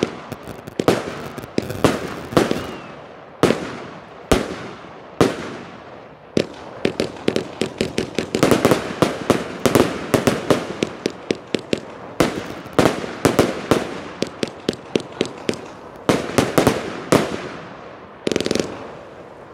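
A 40-shot Evolution Fireworks MJB firework cake firing: a string of sharp bangs, spaced out at first, then a quick rapid-fire flurry in the middle, then spaced out again.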